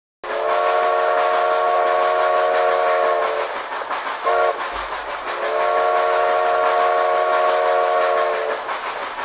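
Train horn sounding several tones together: two long blasts of about three seconds each with a short toot between them, over the steady rushing noise of a moving train.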